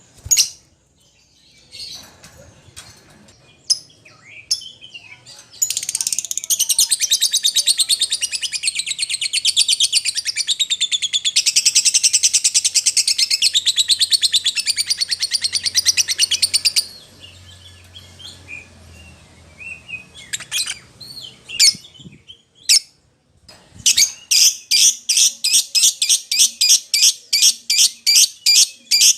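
Lovebird calling to its mates or a rival: scattered sharp high chirps, then about eleven seconds of fast, dense chattering. After a few more scattered chirps comes a rapid string of sharp calls, about four a second, near the end.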